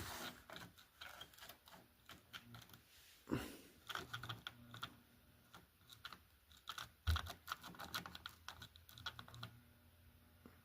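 HO scale model steam locomotive barely running: irregular light clicking and ticking from its mechanism and wheels on the track over a faint motor hum. It struggles to move and needs a helping push.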